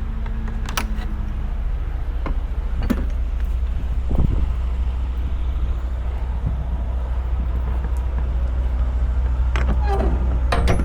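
Semi truck's diesel engine running, a steady low drone with a few scattered clicks and rattles.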